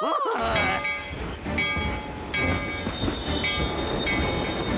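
Cartoon sound effect of a train running: a low, pulsing rumbling clatter with several held whistle tones sounding over it.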